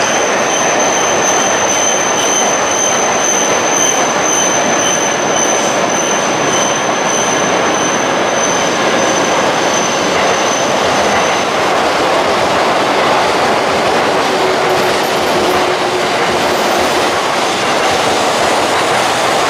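Tohoku Shinkansen train rolling slowly along the platform: a loud, steady rush of wheel and running noise, with a thin high whine that stops a little over halfway through.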